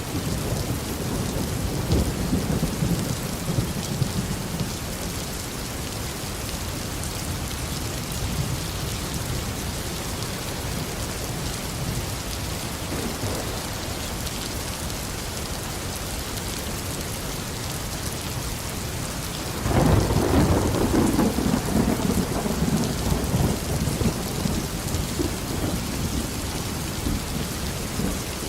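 Tropical rain falling steadily, with thunder: a low rumble in the first few seconds, then a louder thunderclap about twenty seconds in that starts suddenly and rolls on for several seconds.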